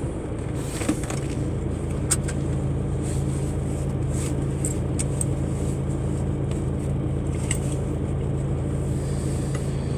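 Heavy truck's diesel engine idling steadily, with a few light clicks.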